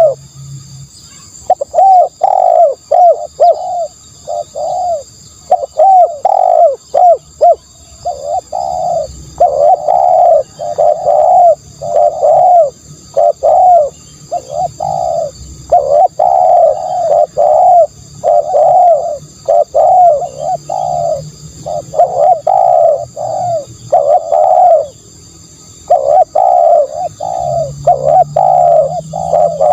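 Spotted dove cooing: loud, repeated runs of short coo notes with brief pauses between phrases, a recorded call used as a decoy. A faint steady high-pitched whine sits in the background.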